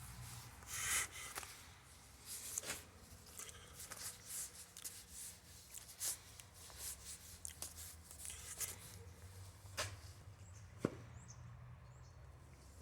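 Irregular light clicks, taps and rustles of things being handled, with one sharper knock near the end, over a faint steady hum.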